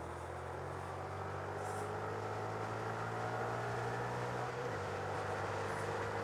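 Honda Grom's single-cylinder 125 cc engine running under way, its pitch climbing slowly as the bike gathers speed, with a shift in the engine note about three-quarters of the way through, over steady road and wind noise.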